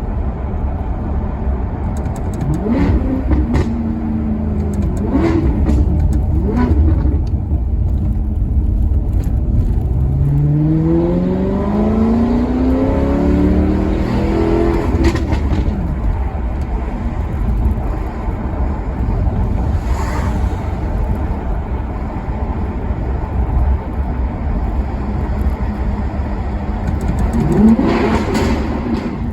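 Maserati Quattroporte Sport GT's V8 engine being revved over a low steady rumble: a few quick throttle blips, a longer rise and fall in revs about midway, and another burst of revs near the end.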